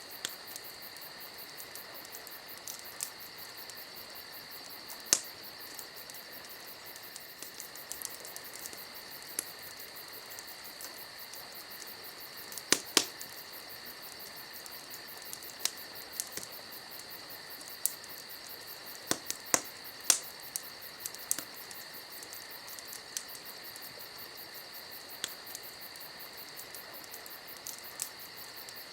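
Campfire crackling, with sharp pops at irregular intervals, the loudest about 5, 13 and 20 seconds in, over a steady high chirring of crickets.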